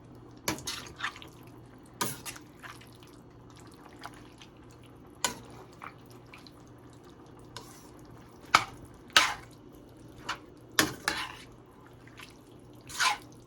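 Spoon stirring a thick, wet pot of chili with kidney beans, knocking and scraping against the sides of the pot in irregular strokes, with wet squelching between them.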